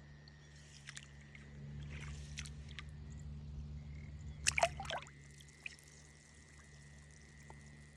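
Water trickling and sloshing in a flooded rice paddy, with a short burst of splashes about four and a half seconds in, over a low steady hum.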